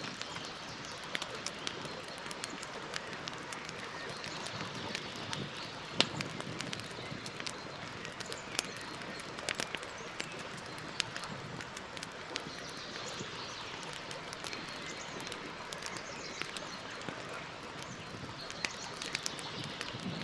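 Campfire burning with a steady crackle and frequent sharp pops and snaps of burning wood, the loudest pop about six seconds in.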